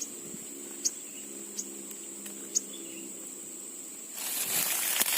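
A steady high insect drone with four short, sharp, high bird chirps in the first three seconds, over a low steady hum. About four seconds in, a loud rustling noise lasts roughly a second.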